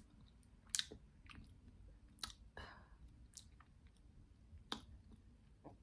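Close-miked chewing of food, with a handful of short wet mouth clicks and smacks about a second apart.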